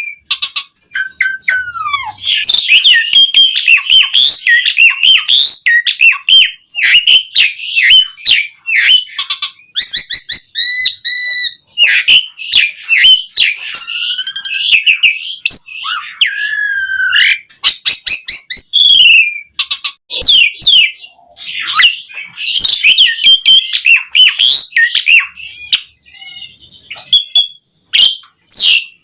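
Asian pied starling (jalak suren) in full, continuous song: a long, varied run of loud whistles, falling whistled slurs and rapid clicking chatter with only brief gaps. The song is rich in mimicked phrases of other birds.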